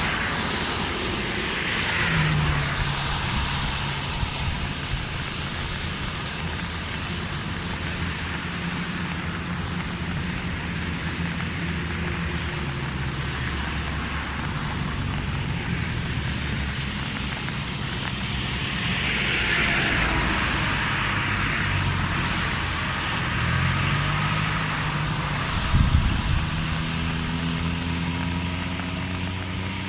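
Motor vehicle engine running with shifting pitch, as other vehicles pass with a whoosh twice, once at the start and once about two-thirds of the way in. A short knock comes near the end.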